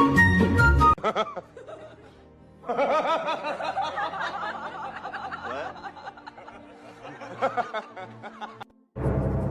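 A person laughing in quick, wavering snickers and chuckles, after background music cuts off about a second in; music starts again near the end.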